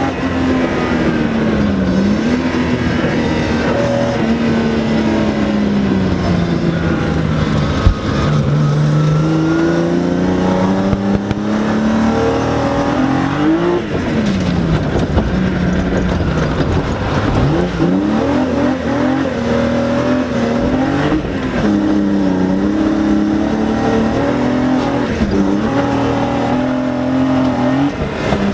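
BMW E30 rally car's engine, heard from inside the cabin, revving hard through the gears: the pitch climbs and falls again and again, with sudden drops around the shifts. A single sharp knock comes about eight seconds in.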